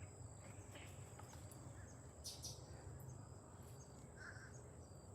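Near silence: faint outdoor background with a thin, steady, high-pitched insect drone and a couple of brief faint chirps.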